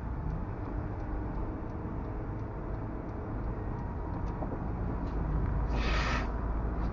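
Steady low road-and-engine rumble of a moving vehicle. Faint ticking runs about three times a second, and a brief hiss comes about six seconds in.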